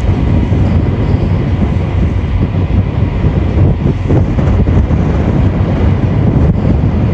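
Strong wind buffeting a phone's microphone: a loud, steady low rumble.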